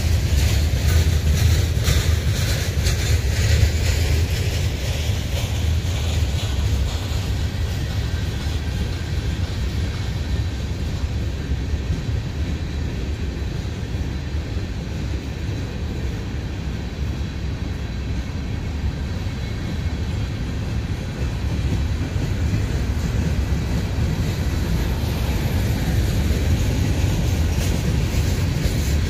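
Covered hopper cars of a slow freight train rolling past: a steady low rumble of steel wheels on rail, with clicks from the wheels over the track during the first few seconds. A little quieter in the middle, louder again near the end.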